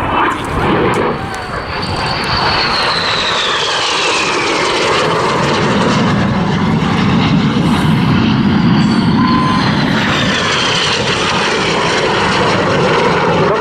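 BAE Hawk T1 jets passing, a loud steady jet roar with a high engine whine that falls in pitch twice as aircraft go by.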